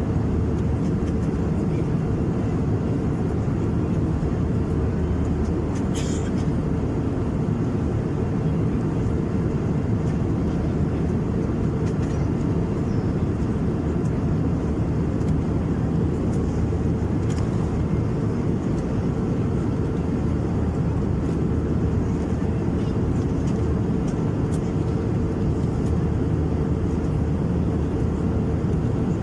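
Steady cabin noise of an Airbus A321-200 at cruise altitude: a constant low rumble of engines and airflow, with a faint click about six seconds in.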